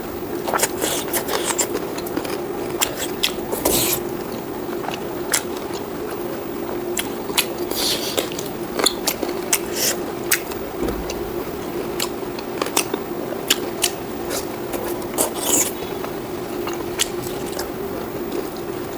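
A person eating close to the microphone: irregular wet clicks, smacks and crunchy bites of chewing pork and rice, over a steady low hum.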